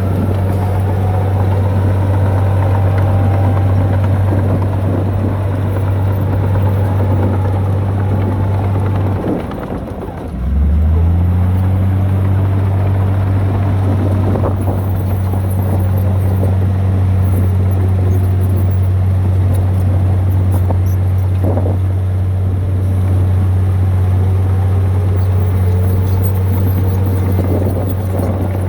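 Heavy diesel engine of earthmoving machinery running with a steady deep drone, plus scattered clanks. The drone drops away about nine seconds in and picks back up about a second later.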